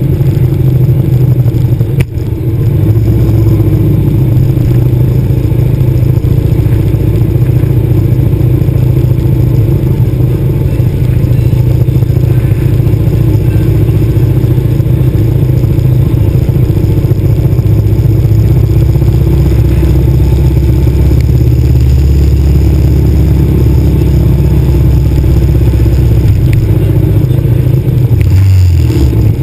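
Harley-Davidson V-twin motorcycle engine running close to the microphone, rolling at low speed and idling, a steady low rumble. There is a short dip about two seconds in and a change in the rumble near the end.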